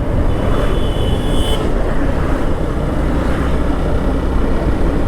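Motorcycle on the move with steady engine and road noise, and a brief high tone lasting about a second near the start.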